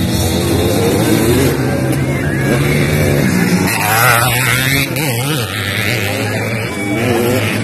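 Motocross dirt bike engines running, their pitch wavering up and down around the middle as the throttle is worked.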